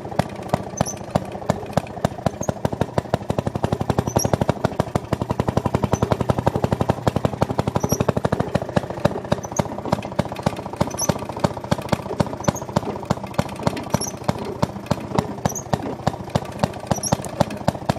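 Maytag Model 92 single-cylinder two-stroke engine running with its exhaust open after the bucket muffler was given up: a rapid, steady string of sharp exhaust pops, uneven in strength.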